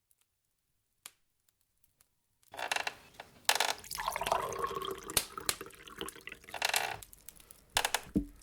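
Coffee being poured into a cup, starting about two and a half seconds in after near silence.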